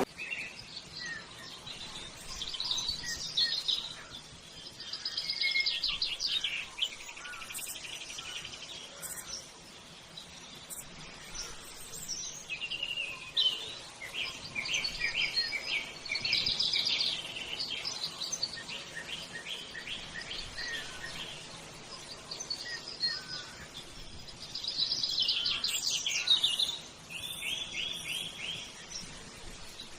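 Birdsong: a series of quick trilled phrases of rapidly repeated high notes, coming in several bursts with short gaps between.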